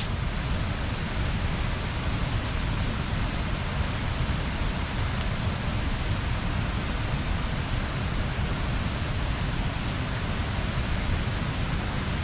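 Bonfire burning with a steady rushing hiss and low rumble, one sharp crackle of wood right at the start and a faint pop about five seconds in.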